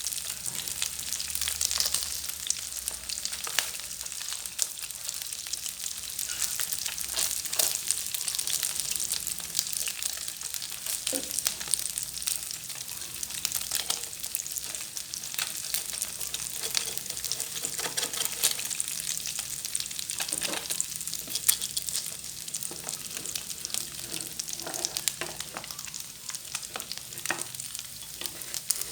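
Small freshwater fish frying in hot oil in a pan: a steady sizzle with many sharp pops and crackles.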